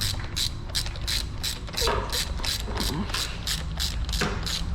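Socket ratchet wrench clicking rapidly and evenly, about five to six clicks a second, as the cylinder head bolts of a Yamaha FZ 2.0 engine are run down snug, not yet torqued.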